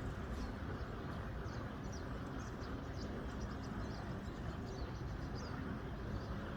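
A steady wash of water noise with small birds giving many short, high chirps throughout.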